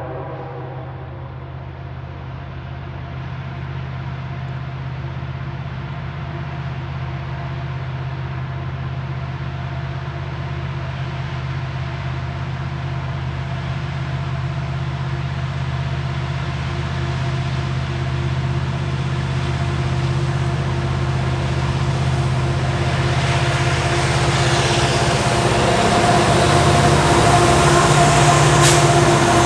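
Union Pacific freight train's diesel locomotives running with a steady low engine drone, growing louder and rumbling more as the train approaches, with one short sharp sound near the end.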